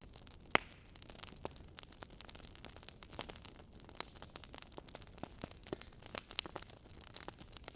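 Wood fire crackling, with scattered irregular pops and snaps and one sharper pop about half a second in.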